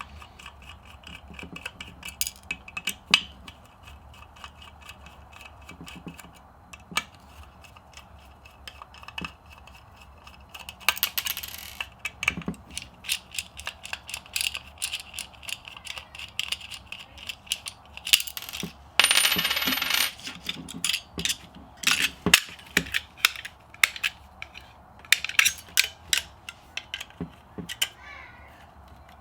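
Small metal parts of a damaged hard disk drive clicking and clinking against a screwdriver and the drive's metal casing as the platter hub is unscrewed and taken apart. There are two brief rasping noises, each lasting about a second.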